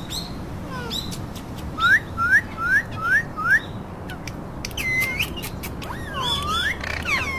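Pet parakeet whistling: a run of five short rising whistles about two seconds in, then a few more chirps and calls.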